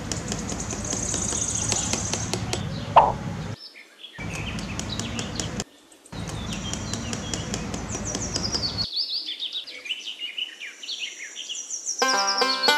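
Small birds chirping and twittering over a steady rushing background noise that cuts off abruptly several times, leaving the chirps alone. A plucked banjo tune begins near the end.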